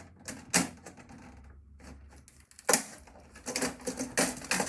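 Parts of an old computer being handled and pried apart: a string of sharp, irregular clicks and clacks, loudest about half a second in and near three seconds, with a quick run of them near the end.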